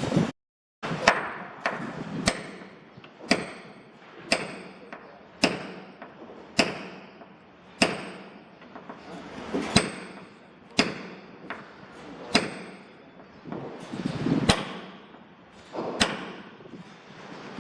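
Hammer blows on timber during wooden boat building, a steady run of about a dozen single strikes roughly a second apart, each with a short metallic ring.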